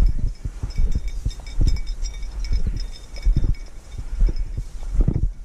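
Irregular low thumps of walking footsteps and handling of a hand-held camera, over a low rumble of wind, with faint high metallic tinkling scattered through.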